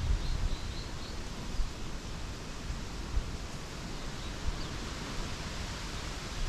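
Forest ambience: a steady rustle of leaves in the wind, with a few faint, high bird chirps in the first second and again about halfway through.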